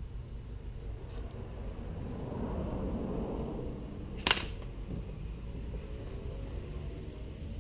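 Small metal hardware being handled and clinking, with one sharp click about four seconds in, over a steady low hum.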